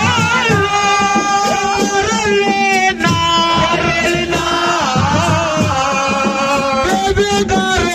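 Band music: a bending, held melodic lead, sung or played, over a busy drum rhythm.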